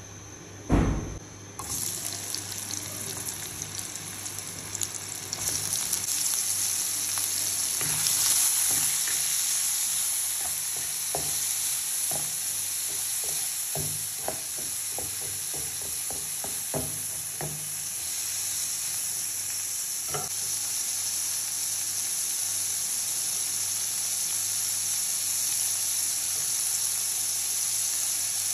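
Chopped tomatoes sizzling and frying in hot oil in a pan, with a thump about a second in as the sizzle starts. In the middle, a spatula scrapes and taps against the pan in a run of short clicks as the tomatoes are stirred.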